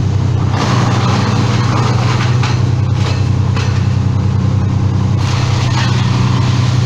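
A large engine running steadily at a constant speed. A rougher, hissing noise rides over it from about half a second in until about five seconds in.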